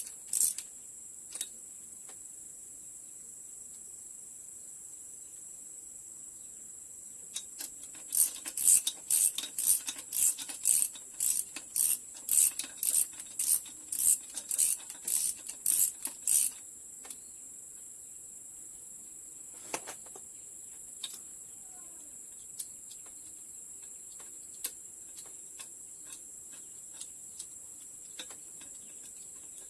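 Socket ratchet being worked in quick back-and-forth strokes, about two clicking bursts a second for several seconds in the middle, then a few single clicks.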